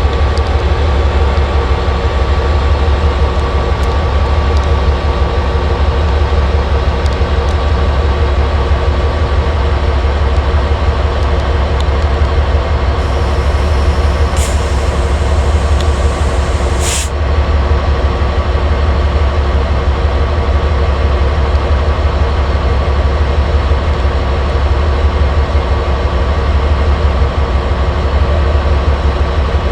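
Train running steadily: a loud, unbroken low drone with steady tones above it. A single sharp knock about 17 seconds in.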